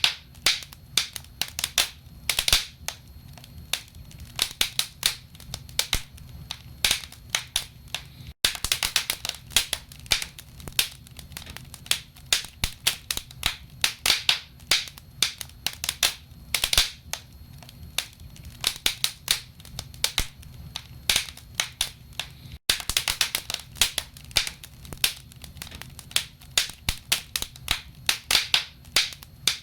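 Wood fire in a fireplace crackling: burning logs give off dense, irregular sharp pops and snaps over a low steady rumble. The sound cuts out for an instant twice.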